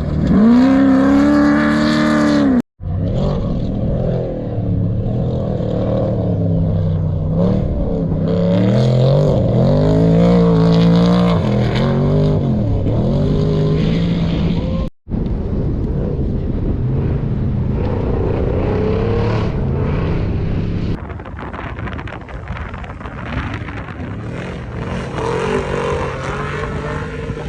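Off-road race vehicle engines revving and passing, the pitch rising and falling repeatedly, cut off abruptly twice. Quieter after about 21 seconds in.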